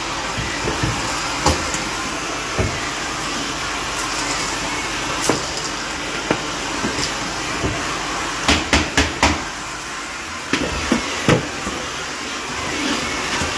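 Vacuum cleaner running with a steady rush, with scattered clicks and knocks as debris and the nozzle strike, most of them in a quick cluster about two-thirds of the way through.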